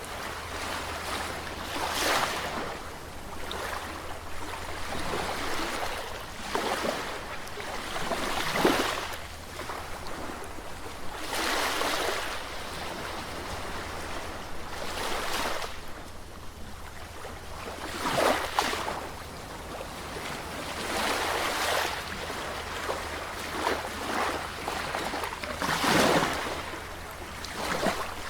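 Sea waves breaking and washing on a shore, a steady rush of surf with a louder surge every few seconds.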